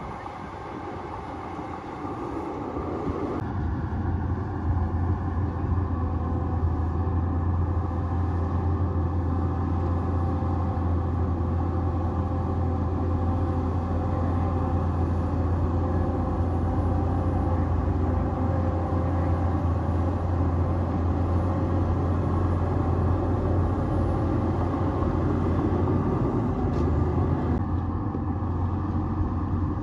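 Bulldozer's diesel engine running steadily under load, with a deep drone and a rumbling clatter. It gets louder about three seconds in.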